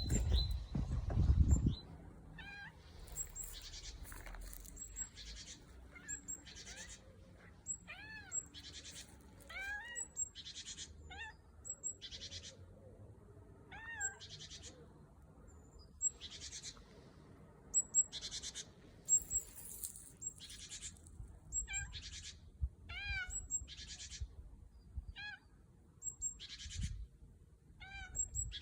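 A bird calling over and over in short notes that rise and fall in pitch, mixed with harsher raspy notes, about one call a second. A brief loud low noise comes in the first second or two.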